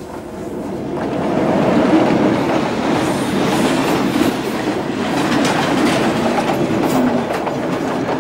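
Diesel train passing close by: its rumble swells over the first two seconds as it approaches, then holds, with the wheels clacking over the rail joints.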